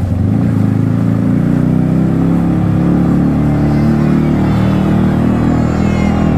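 Yamaha MT-15's single-cylinder engine running on the move through an aftermarket Akrapovic exhaust, a steady, loud low engine note.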